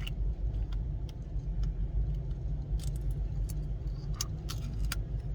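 Scattered light clicks and clatter of small items being handled over a steady low rumble.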